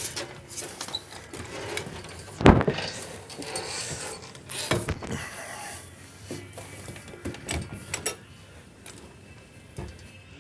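Knocks and rattles of a catamaran's mast and rigging hardware as the mast is lowered, with the loudest sharp knock about two and a half seconds in.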